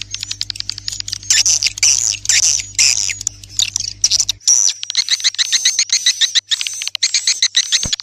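Swiftlet calls: dense bursts of rapid clicking, buzzy chirps and high twitters, repeating with short gaps. A low steady hum beneath them stops abruptly about four and a half seconds in.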